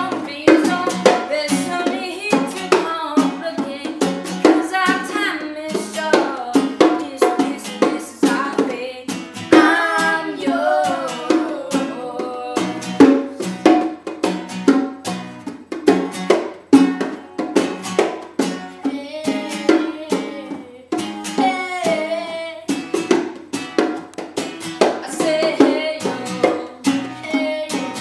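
Live acoustic cover: a voice singing over steady strummed chords on an acoustic string instrument, with a regular rhythm.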